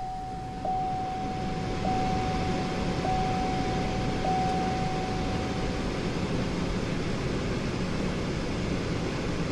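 2008 Cadillac SRX's 3.6-litre V6 running at idle, which is running a little rough with misfires. A steady chime tone repeats about once a second over the first six seconds.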